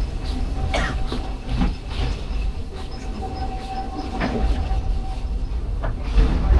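Walt Disney World Railroad train rolling along the track, heard from aboard a passenger car: a steady low rumble with a handful of irregular clacks and a thin steady high tone that comes and goes.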